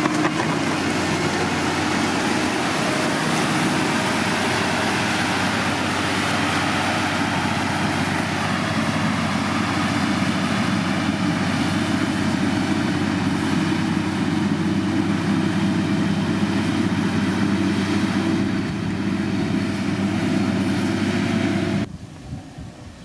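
Diesel engine of heavy road-building machinery running steadily under load. Near the end the engine sound cuts off abruptly, leaving a quieter rush of wind.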